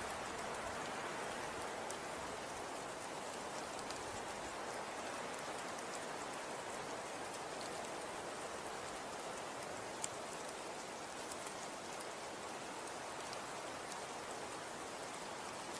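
Falling snow with a steady soft hiss, flecked with faint scattered ticks of flakes landing and one sharper tick about ten seconds in.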